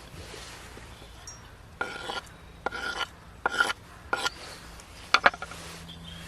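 Metal camp cookware scraped and knocked in about five short bouts, each with a faint metallic ring.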